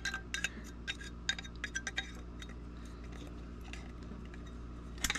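Sharp metallic clinks and clicks from the thin sheet metal of an old lantern being worked by hand to widen a hole: a quick run of them in the first two seconds, a lull, then another short cluster near the end.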